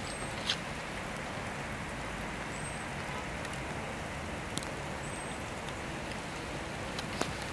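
Steady rain falling on wet tarmac and a parked car, an even hiss with a few sharp drip ticks. A faint, short, high chirp comes every couple of seconds.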